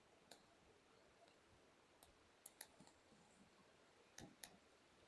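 Near silence broken by a few faint, short clicks, scattered irregularly, with two small pairs about halfway through and near the end.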